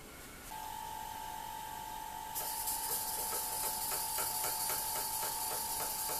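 Model beam engine starting to run, its mechanism clicking about four times a second. A loud hiss comes in a little past two seconds, with a steady high whine throughout.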